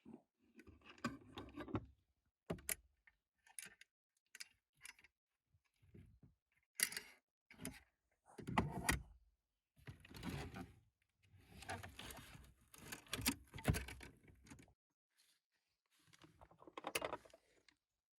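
Faint, irregular handling noises of camp gear being packed up: short clicks and knocks mixed with patches of rustling and scraping.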